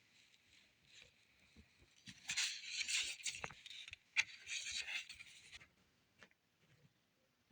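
Album packaging being handled and unwrapped: rubbing and scraping rustle, loudest from about two to nearly six seconds in, with a few light clicks.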